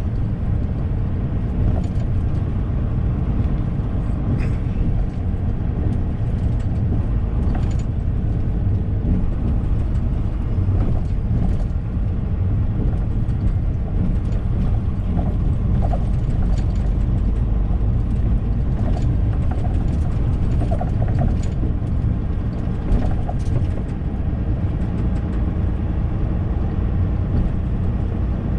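Semi-truck driving, heard inside the cab: a steady low engine and road rumble, with scattered small rattles and clicks.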